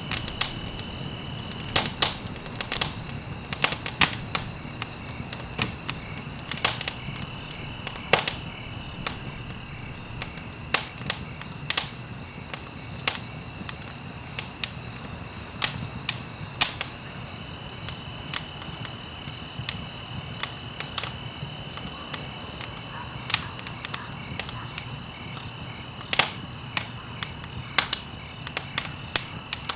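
Wood fire crackling in a fireplace: irregular sharp pops and snaps, sometimes several in quick succession, over a low steady rush of the flames, with a faint steady high tone alongside.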